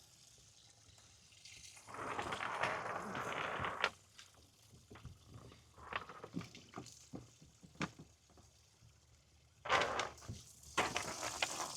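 Water splashing and trickling in two short spells, with scattered light knocks and clicks between them.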